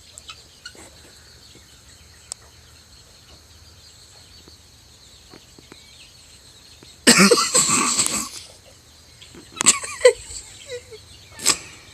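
A person's loud, harsh burst of coughing laughter about seven seconds in, lasting about a second and a half, then two short bursts near the end. Before it there is only a faint steady background.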